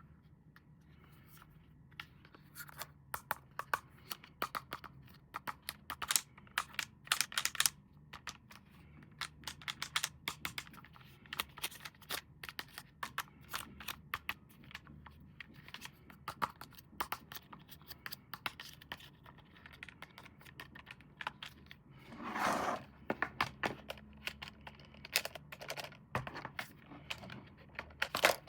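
Hands unboxing a toy: packaging handled and opened, with irregular clicks, scratches and scrapes, and a longer tearing sound about three-quarters of the way through.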